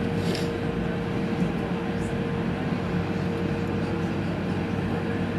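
Steady cabin noise inside an Airbus A380's lower-deck economy cabin: an even rush of air and engine noise with a constant low hum and a steady mid-pitched tone.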